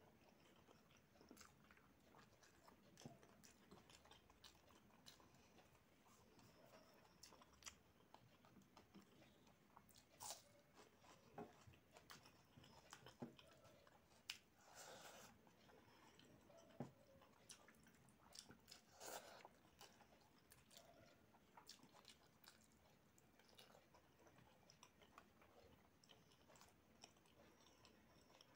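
Faint close-up chewing and mouth sounds of a person eating rice and curry with her hand: scattered soft clicks and smacks, a few louder ones about ten, fifteen and nineteen seconds in.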